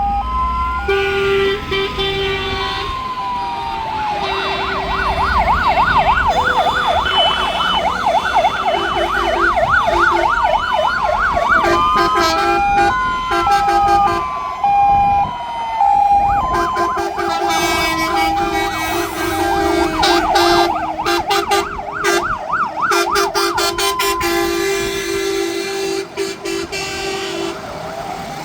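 Several fire engine sirens sound at once in a procession. Slow rising-and-falling wails, fast warbling yelps and two-note hi-lo tones overlap, with steady horn tones underneath.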